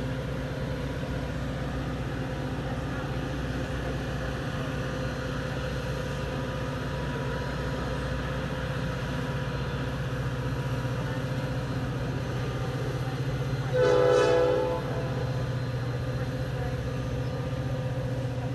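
Diesel train running steadily with a low hum. Late on, a short single horn blast of about a second sounds.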